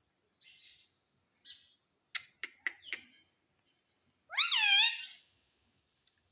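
Indian ringneck parrot making a few soft chirps, then four quick sharp clicks, then one loud, wavering call about four seconds in.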